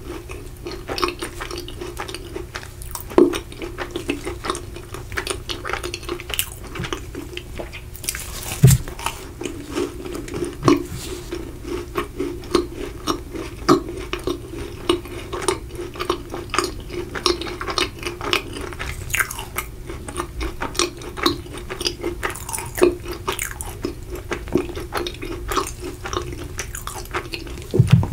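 Close-miked chewing of macarons: a steady run of small wet mouth clicks with occasional louder crunches of the shell.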